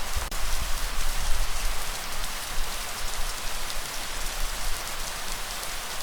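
Steady rain falling on a surface, an even hiss with scattered drop ticks. A low rumble swells under it in the first couple of seconds and then eases off.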